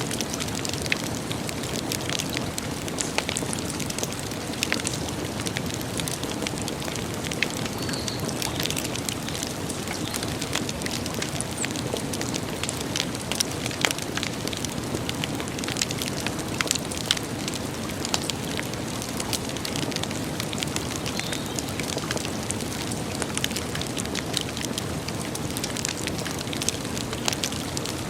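Campfire crackling: a steady low rush of burning wood with frequent sharp pops and snaps.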